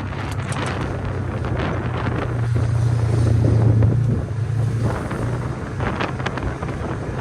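A vehicle engine running at a steady pitch, louder for a moment about three seconds in, with wind buffeting the microphone.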